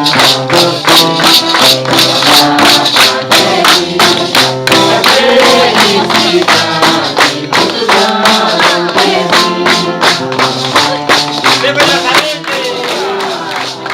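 Group of voices singing a Santo Daime hymn, with maracas shaken in a steady beat throughout.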